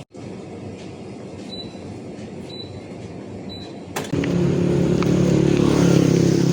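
Steady city traffic rumble with three short high beeps about a second apart, then a louder vehicle engine running close by from about four seconds in.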